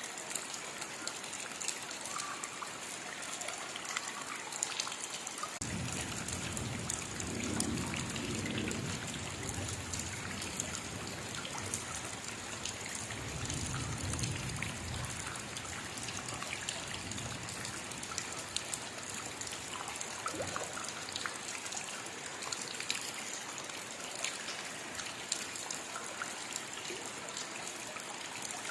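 Steady rainfall, with individual drops pattering and water trickling. A low rumble comes in about five seconds in and dies away by about seventeen seconds.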